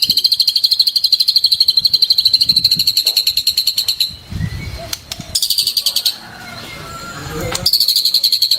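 A songbird's rapid trill, a dense run of evenly repeated notes on one high pitch. It stops about four seconds in, returns briefly a second later, and starts again near the end. Low rumbly noise fills the gaps.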